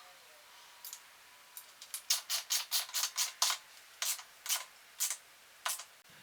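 A run of sharp, short clicks, a few a second and uneven, thinning out towards the end.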